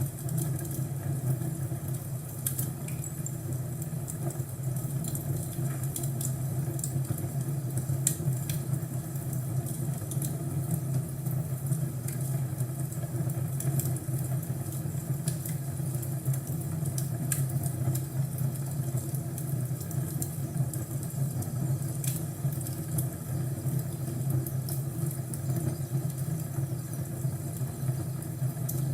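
Crackling fireplace: a steady low rumble of the fire with sharp, scattered crackles and pops every second or so.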